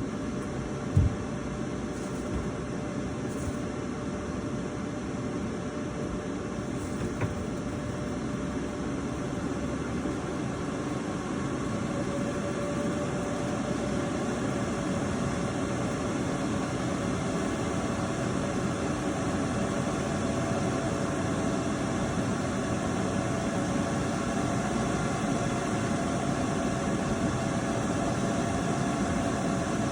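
Electric arc welder running a long continuous weld: a steady frying crackle that starts suddenly, with a sharp pop about a second in and a faint hum that rises slowly in pitch.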